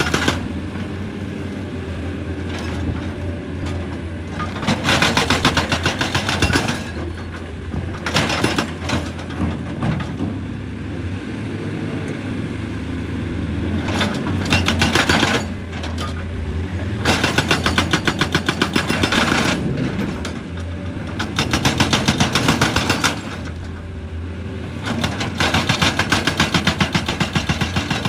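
Excavator's diesel engine running steadily, with repeated bursts of rapid hammering from its hydraulic rock breaker, each burst a second or two long.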